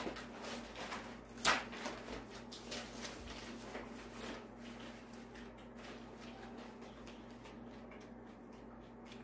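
One sharp click or knock about a second and a half in, with a few faint scattered clicks, over a quiet steady low hum.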